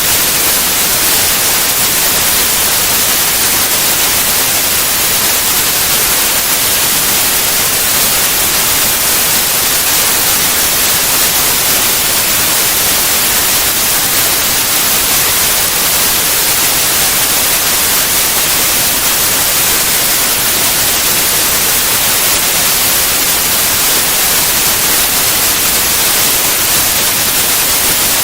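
Steady white noise: an even hiss, brightest in the high frequencies, with no change or breaks.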